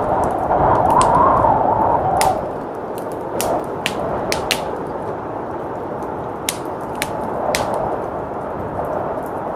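Wood fire crackling, with scattered sharp pops, over a steady rush of blizzard wind. The wind swells in a gust during the first two seconds.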